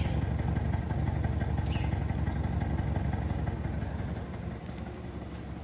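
Audi 3.0 TFSI supercharged V6 idling while warming up, with the intake hose off the throttle body. The steady idle eases a little quieter about four and a half seconds in.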